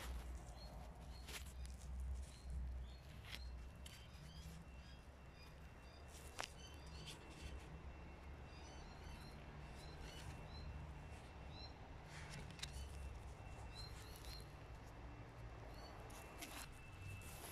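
Faint outdoor ambience: small birds chirping in short, high, scattered chirps over a low rumble, with a few soft clicks.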